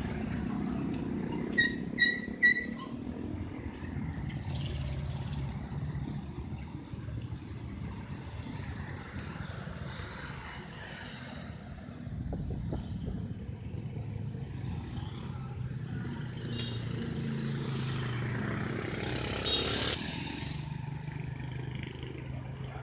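Street traffic: engines run steadily and vehicles pass, one growing louder and going by close near the end. About two seconds in there are three short high-pitched clinks.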